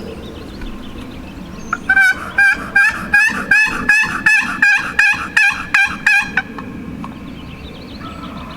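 Wild turkey hen yelps: a loud, steady series of about a dozen notes, roughly three a second. Each note breaks in pitch, and the series stops after about four and a half seconds.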